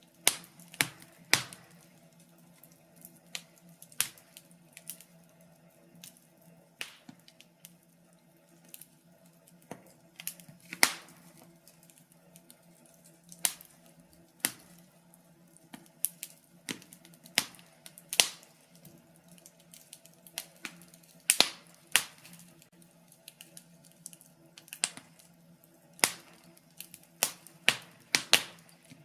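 Fire crackling in a fireplace: irregular sharp snaps and pops, sometimes in quick clusters, with brief gaps between them, over a faint steady hum.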